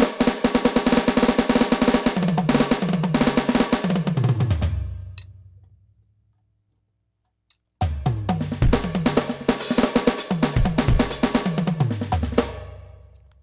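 NUX DM8 electronic drum kit played in two fast bursts, each a dense run of strokes that finishes with a fill down the toms, falling in pitch, and then rings out. The first burst ends about five seconds in; the second starts about eight seconds in.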